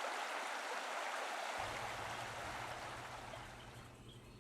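Steady rushing of flowing stream water that fades down over the second half.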